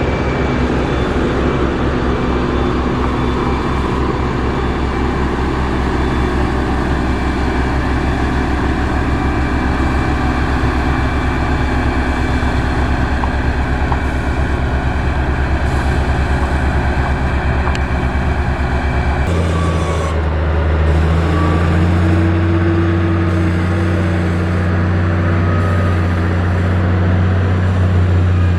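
Heavy construction-machine diesel engines running steadily. About two-thirds of the way through, the sound changes abruptly to a different engine with a deeper, steadier note.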